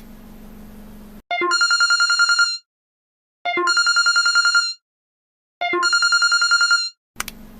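Telephone ringing three times, each ring a fast trill about a second long on one fixed pitch, with short gaps of silence between rings.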